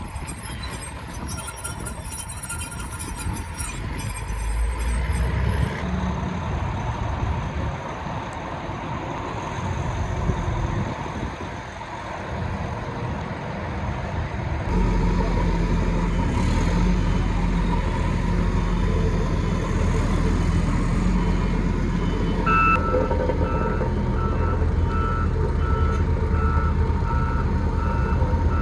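Diesel engine of a heavy earthmoving machine running, growing louder and stepping up sharply about halfway in. In the last several seconds a backup alarm beeps at an even pace as the machine reverses.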